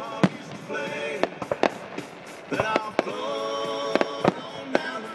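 Aerial firework shells bursting in an irregular run of sharp bangs, about a dozen, with music playing under them.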